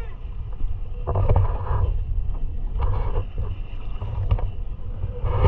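A motorboat under way at sea: a steady low engine and hull rumble, with short bursts of rushing water and spray about a second in, around three seconds and again near the end.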